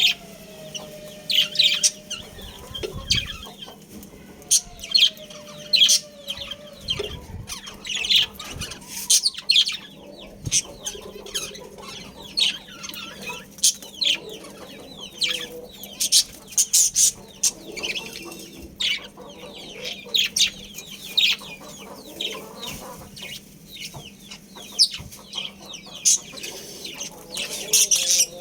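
A group of budgerigars chirping and chattering, many quick high chirps in rapid irregular runs. A lower wavering call sounds twice in the first six seconds, over a faint steady hum.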